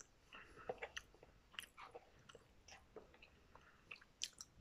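Faint, wet chewing and lip-smacking of a person eating instant cup noodles, a scatter of small mouth clicks.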